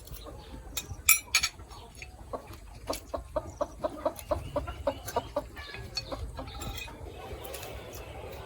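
Chickens clucking: a quick run of short clucks, about five a second, lasting around three seconds. Two sharp clicks come about a second in.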